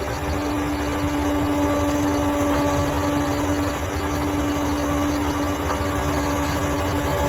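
Bulldozer's diesel engine running steadily, a low rumble with a constant whine over it.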